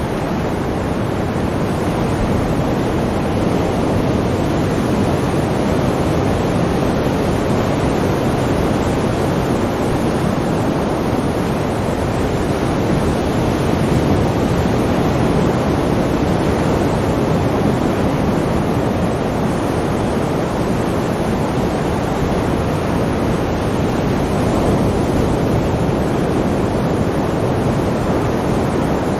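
Sea waves washing on a shore: a steady rush of surf that swells and eases gently.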